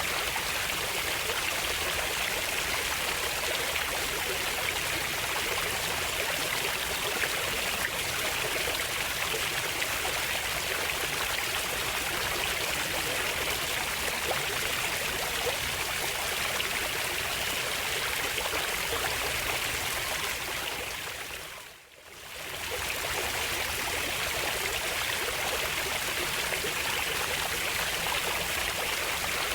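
Running water of a stream, a steady rushing and trickling. About three-quarters of the way through it fades out briefly and comes back, the splice where the recording loops.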